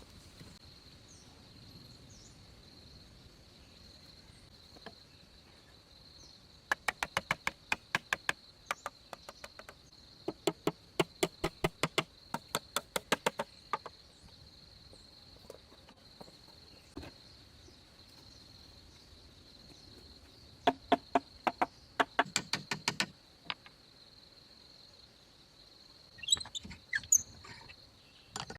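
Several bursts of rapid sharp knocks, about seven a second, over a steady high-pitched insect trill; a few bird chirps near the end.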